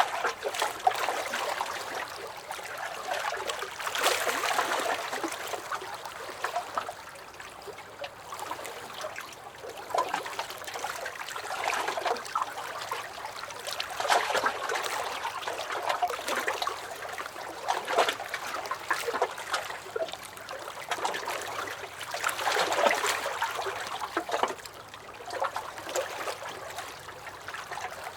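Small lake waves lapping and splashing against a dock, in irregular swells every few seconds with many small sharp splashes between them.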